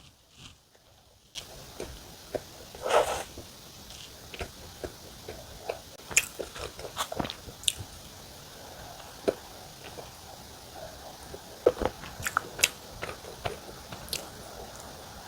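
Close-miked eating: a person biting and chewing a mocha cream sandwich bun, with many short irregular mouth clicks and smacks.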